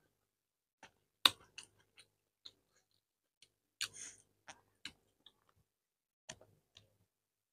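Close-up eating sounds: about a dozen short, sharp mouth clicks and smacks of chewing and lip smacking while eating by hand, with near silence between them. The loudest come about a second in and again near four seconds.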